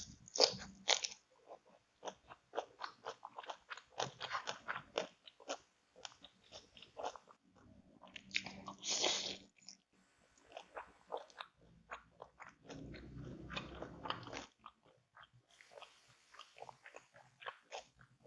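Close-miked eating of a crunchy meal of ayam geprek (smashed crispy fried chicken) with raw vegetables: many short, irregular crunches and bites with softer chewing between them.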